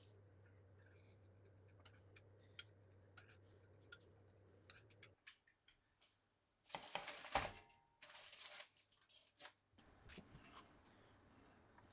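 Faint kitchen handling noises: scattered clicks and a short scraping, rustling stretch a little past the middle. A low steady hum stops about five seconds in.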